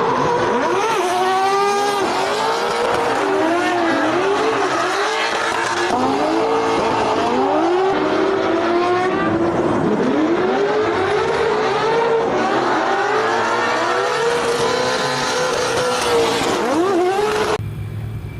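Drift car engine revved hard, its pitch rising and falling rapidly over and over, with tyre noise underneath. The sound drops off abruptly about a second before the end.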